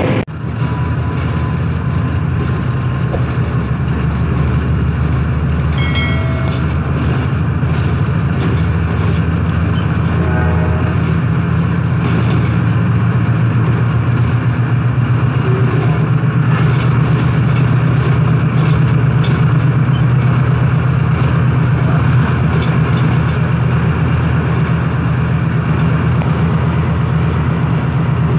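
Diesel train running at speed, heard from on board: a steady low engine drone with rail noise. Two brief pitched tones come about six and ten seconds in.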